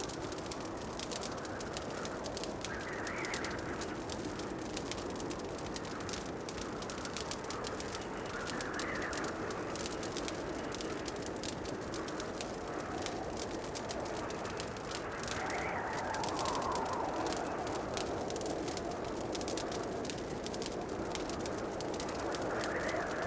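Fireplace crackling: a steady low rush of burning logs with many small, quick pops throughout, and soft swells in the rush every few seconds.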